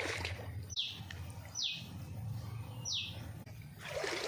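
A bird calling three times, each call a short high note sliding quickly downward, over a low steady rumble.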